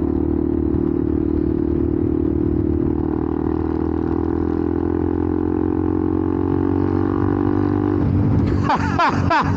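Benelli TNT 125's single-cylinder four-stroke engine running loud through an aftermarket exhaust, holding a steady note while cruising in fifth gear. About eight seconds in, the steady note breaks off and the sound turns uneven.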